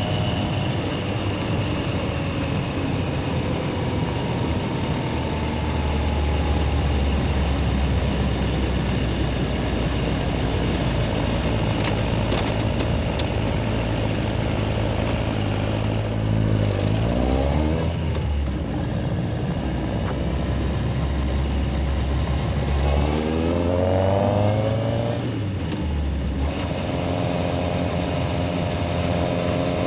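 Yamaha XJR1300's air-cooled inline-four engine running under way. The pitch falls at first; then come several accelerations, each a rising tone broken by a short dip at the gear change.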